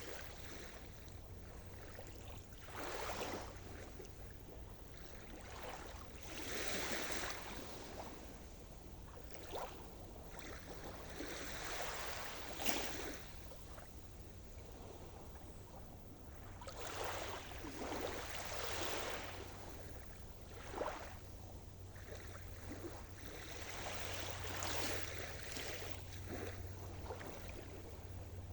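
Sea surf: small waves wash and break on the shore, swelling every few seconds over a steady hiss of water, with a couple of sharper splashes.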